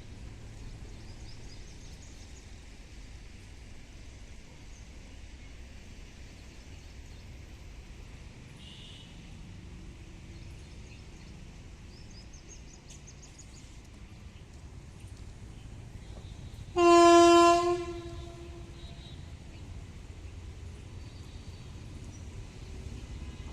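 WAP-7 electric locomotive's horn sounding once, a loud single steady tone lasting about a second, about two-thirds of the way through, over a low steady rumble.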